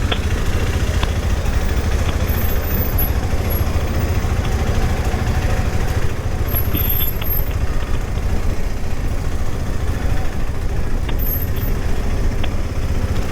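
Steady, heavy rumble of a KTM 390 Adventure motorcycle being ridden, engine and wind noise together on the mic.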